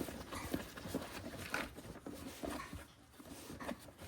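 Soft rustling and light taps of a playmat being folded up by hand.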